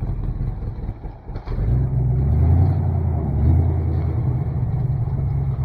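C50 dump truck's engine running under load as the truck moves on its own. It dips briefly about a second in, then picks up again and pulls steadily.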